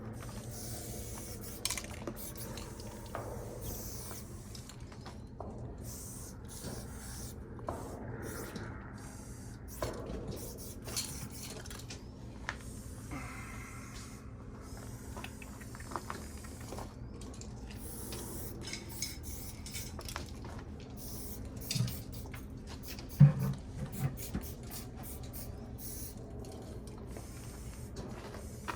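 Aerosol spray-paint cans being handled, with light metallic clinking and short hisses of spraying over a steady low hum. A few knocks come near the end, the loudest about 23 seconds in.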